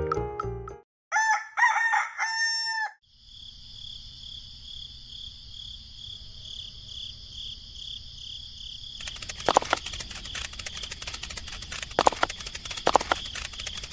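A rooster crows about a second in. A steady high-pitched whine then sets in, and from about nine seconds in it is joined by irregular sharp clicks and knocks.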